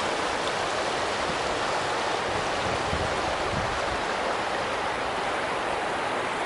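Creek water flowing and splashing over rocks in a steady rush.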